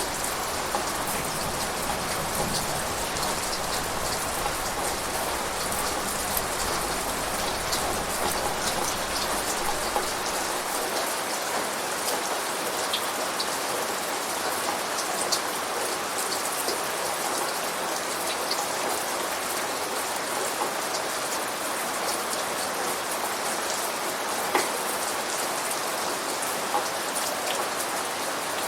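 Steady rain falling, with individual drops ticking sharply here and there. A low rumble underneath fades out about ten seconds in.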